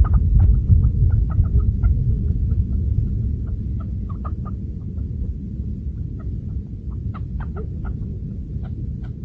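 Chukar partridge giving short, clucking call notes in an irregular series, over a steady low rumble.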